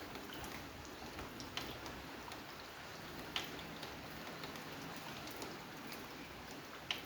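Steady rain falling, with a few louder single drops ticking now and then.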